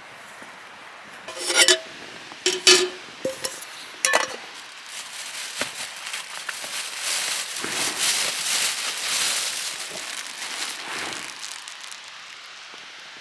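Four or five sharp clinks of tableware in the first few seconds, then a hissing, crackling sound that swells for about five seconds and fades away.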